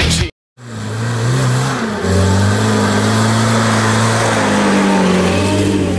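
The end of loud rock music, a brief moment of silence, then a Lada Niva off-roader's engine running under load through mud. The engine's pitch steps up about two seconds in, then slowly sags and picks up again.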